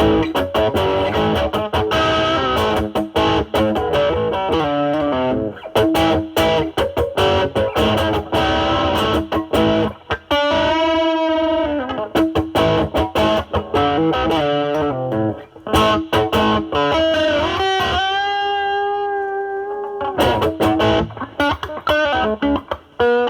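Electric semi-hollow guitar through a NOBELS ODR-1 overdrive pedal into a Marshall Valvestate amp on its drive channel, played at a cleaned-up, lightly overdriven setting: picked blues phrases with long held notes with vibrato about 11 and 18 seconds in.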